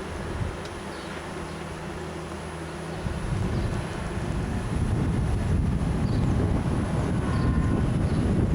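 Low rumble of a car on the move: a steady low hum at first, then a louder rumble that builds from about three seconds in.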